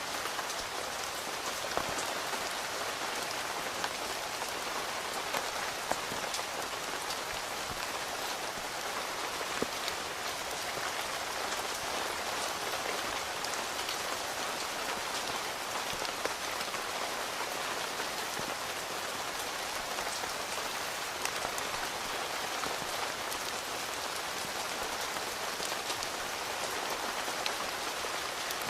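Steady rain falling on a tent, heard from inside: an even hiss with sharper single drop hits scattered through it.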